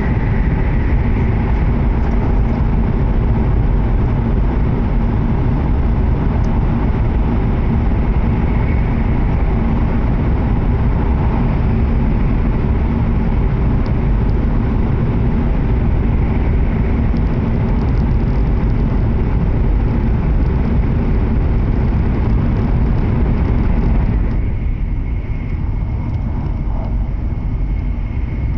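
Cabin noise inside a W7-series Shinkansen running at speed: a steady, loud rumble and rush of wheels and air, with a faint steady whine. Near the end the hiss drops noticeably quieter while the low rumble carries on.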